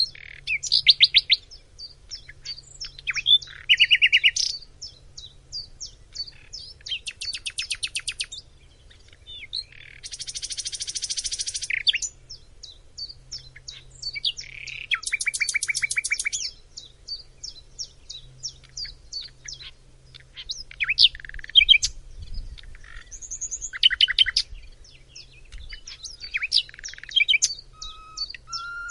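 A songbird singing a long, varied song: fast runs of repeated sharp notes, buzzy trills and clear whistled phrases, broken by short pauses.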